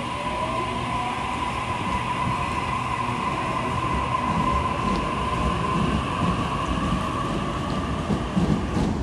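Double-deck electric suburban train pulling out along the platform and gathering speed: a steady rumble with a high-pitched tone held throughout, and a short rising whine as it gets going. The wheel rumble grows rougher and more clattering toward the end.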